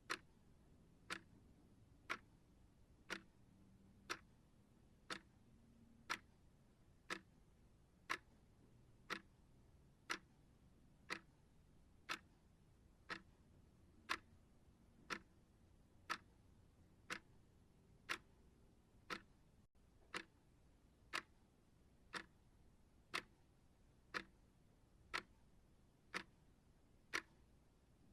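A clock ticking steadily, one crisp tick each second.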